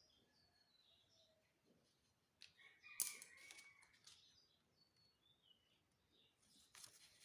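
Faint birds chirping in the background, with a sudden crackle of handled paper about three seconds in and more paper rustling near the end.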